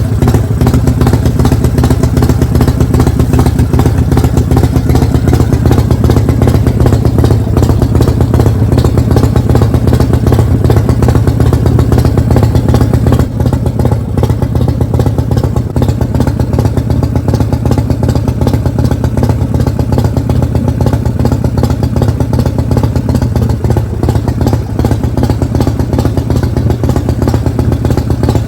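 Motorcycle engine running steadily with a loud, deep note, a little quieter from about halfway through.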